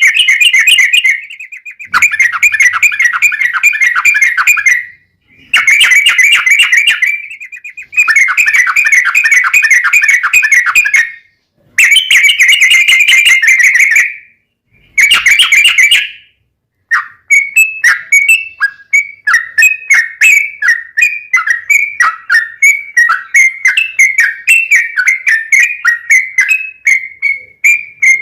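Yellow-vented bulbul (trucuk) singing loudly. Rapid rolling trills come in bursts of two to three seconds with short breaks, then about two-thirds of the way in the song turns into a steady run of quick falling notes, about four a second.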